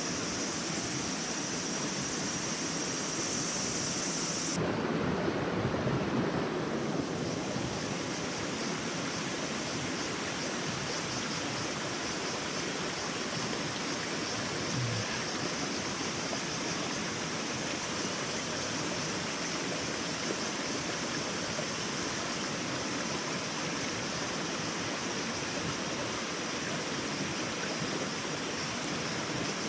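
Steady rushing noise with a hiss high up, changing in tone about four and a half seconds in.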